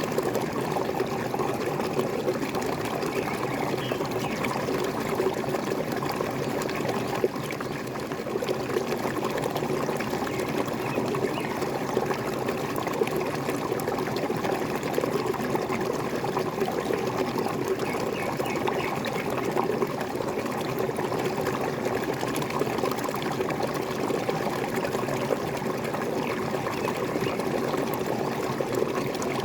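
Water falling and splashing in a small waterfall, a steady, even rush and gurgle.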